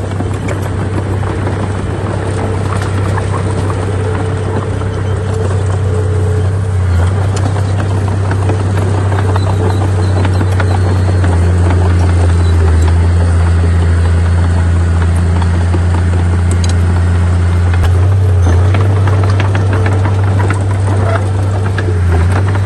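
Heavy diesel engine of earthmoving machinery running steadily at a low, even hum, with scattered light clicks and rattles over it.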